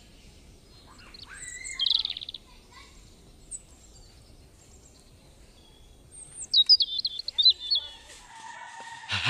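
Wild birds calling: a short, rapid trill about two seconds in, then a quick run of high chirping notes stepping downward about six seconds in.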